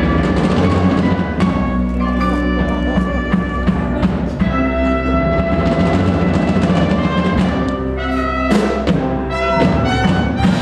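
Instrumental music from a stage musical's pit band: sustained chords with brass and orchestral colour, and struck percussion accents near the end.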